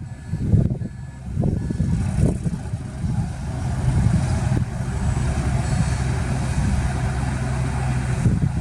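Heavy diesel engine of earthmoving machinery running steadily, with a few knocks in the first couple of seconds and a faint intermittent reversing-alarm beep.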